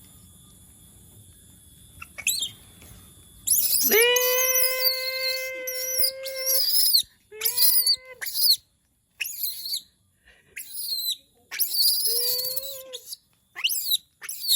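A monkey calling repeatedly: a long, held, wailing call starting about four seconds in and lasting nearly three seconds, followed by a string of shorter cries and high squeals.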